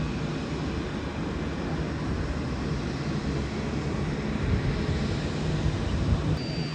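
Steady rumble of jet airliner engines.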